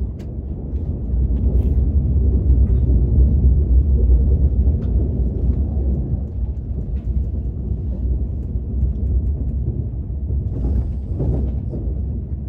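KTX high-speed train running, its steady low rumble heard from inside the passenger cabin, with a few faint clicks over it.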